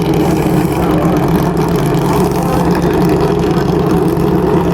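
An engine running steadily at an unchanging speed, a constant low drone.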